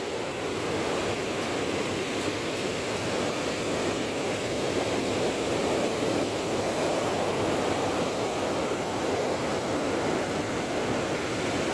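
Surf of a rough sea: a steady rushing wash of breaking waves.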